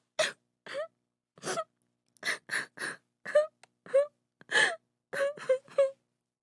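A woman crying: a run of short, broken sobs and gasping breaths, about a dozen, some with a brief high-pitched cry in them, separated by short silences.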